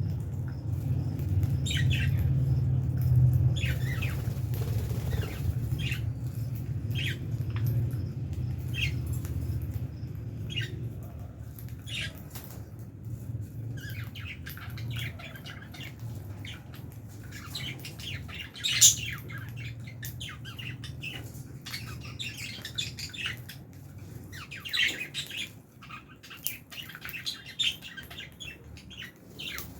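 Lovebirds in an aviary chirping: short high chirps about every second at first, turning into a denser chatter in the second half, with one loud sharp call about nineteen seconds in. A low rumble sits under the first ten seconds or so, then fades.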